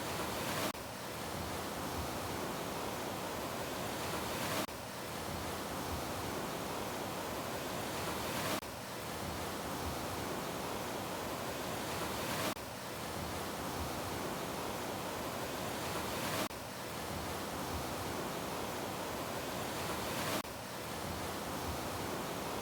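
Steady rushing noise of ocean surf. The level swells slightly and then drops abruptly about every four seconds, in an evenly repeating pattern.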